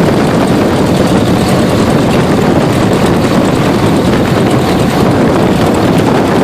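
Cessna 172RG's Lycoming O-360, a 180 hp four-cylinder opposed engine, running with the propeller turning: a loud, steady drone.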